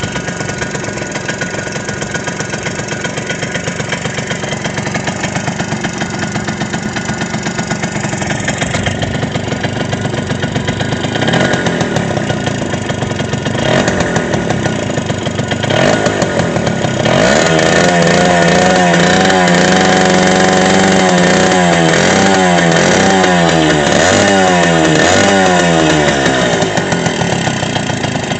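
ZiD Pilot moped's small two-stroke single-cylinder engine running on a test stand after a rebuild, breaking in. It runs steadily at first, takes a few short throttle blips, then from past halfway revs higher with the pitch swinging up and down several times before settling back near the end.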